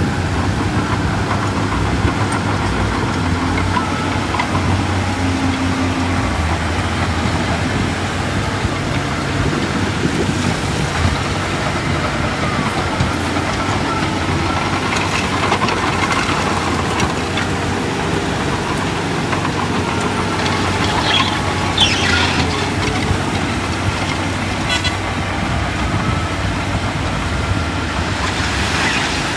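Heavy diesel earthmoving machinery running steadily, with a few short, high-pitched metallic sounds about three-quarters of the way through.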